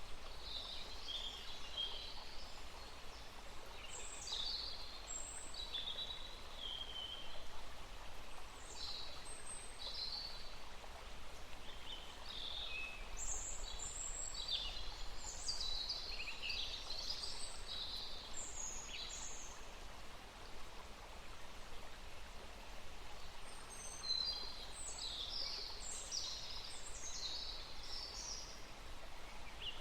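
Birds singing in quick, high-pitched chirps and short phrases, with a brief lull about two-thirds through, over a steady soft outdoor hiss.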